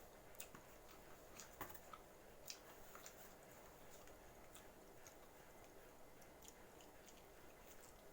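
Faint chewing of pizza: soft, irregular mouth clicks and smacks over a quiet room hiss.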